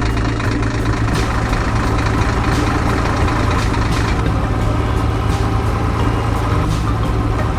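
A vehicle engine running steadily at idle, a deep even hum with a busy mechanical texture above it.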